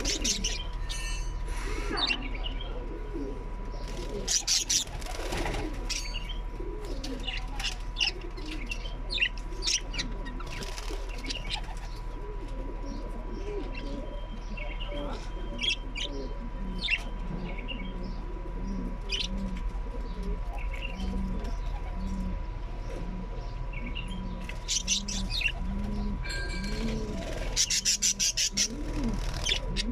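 Small parrot's shrill chirping calls in clusters, loudest near the start, about five seconds in and again near the end. Under them a low cooing repeats about once a second through the second half, over a steady faint hum.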